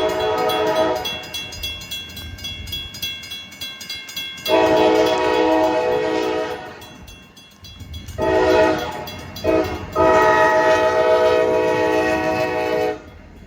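Diesel freight locomotive's air horn sounding a series of blasts, apparently the grade-crossing signal. One blast ends about a second in, a long blast comes about four and a half seconds in, then one or two short toots, and a final long blast ends near the end. Between the blasts there is the steady noise of the passing train and the rain.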